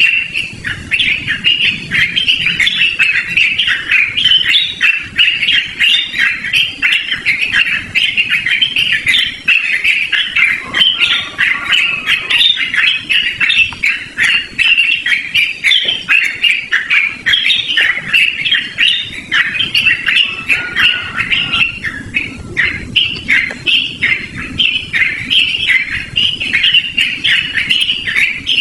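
Yellow-vented bulbul (trucukan) singing without a break, a fast stream of short notes.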